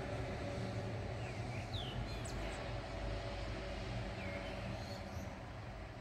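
A few short bird chirps, two about a second in and one more a little past four seconds, over a steady low hum.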